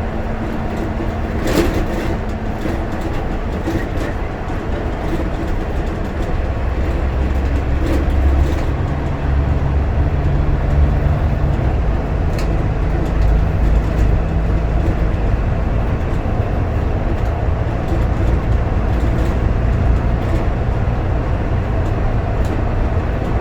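A bus in motion, heard from inside the cabin: steady engine drone and road rumble, swelling about a third of the way in as the bus picks up, with an occasional knock or rattle.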